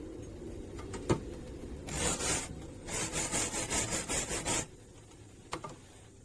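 Rusty metal being scrubbed by hand with an abrasive, in quick, even back-and-forth strokes, several a second. A short scrub comes first and the longer run of strokes follows. A sharp knock about a second in and a lighter tap near the end are the tool or part being handled.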